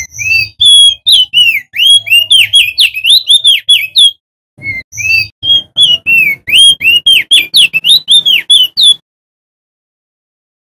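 Male opior jambul (prenjak daun) singing: two long, fast runs of loud, sweet whistled notes that slide up and down, with a half-second break between them.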